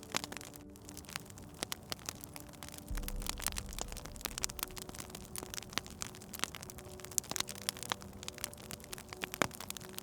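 Wood fire crackling, with many small irregular pops and snaps and a low rumble about three seconds in.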